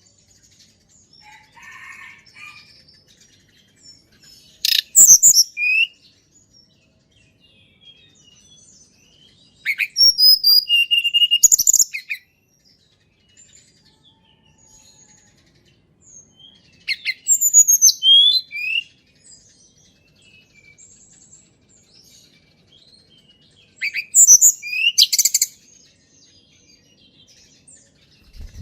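Tledekan gunung songbird singing: short, loud phrases of high, fast-gliding chirps and whistles, four of them about six or seven seconds apart, with faint chirps between.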